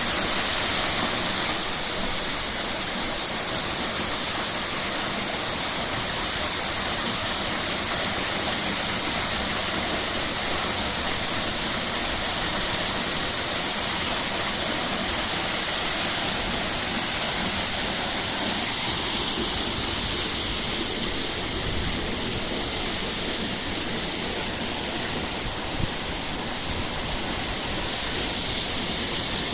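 Waterfall: a steady, unbroken rush of falling water, strongest in its high hiss.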